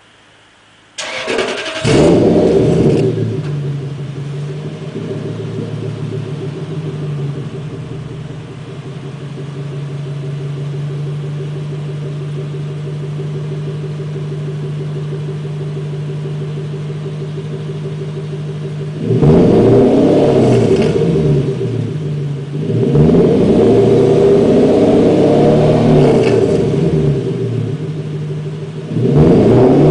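Toyota Celsior UCF31's V8 starting about a second in, settling to a steady idle, then revved repeatedly in the last ten seconds, through a one-off full-stainless exhaust with metal catalytic converter, straight front and centre pipes and a loop rear muffler.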